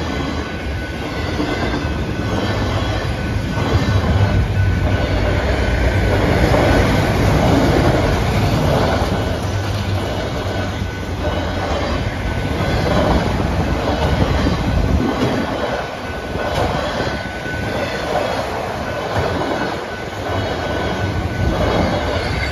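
Norfolk Southern manifest freight train's cars rolling past, wheels clattering on the rails with some wheel squeal. A deep rumble under it eases off about two-thirds of the way through.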